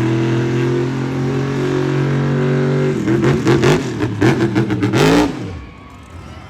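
Monster truck engine running at a steady speed, then revved hard in a string of quick throttle blips for about two seconds before it cuts back sharply.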